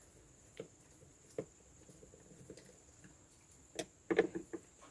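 A few light clicks and knocks from small parts and tools being handled during hand assembly work: single taps about half a second and a second and a half in, then a quick cluster of them near the end.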